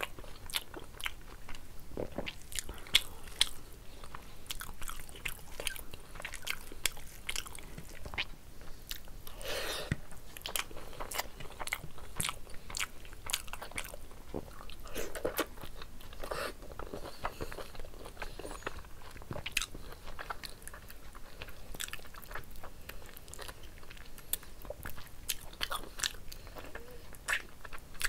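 A person chewing and smacking while eating rice and mutton curry by hand, a dense run of short sharp mouth clicks with a few longer noisier sounds around ten and fifteen seconds in.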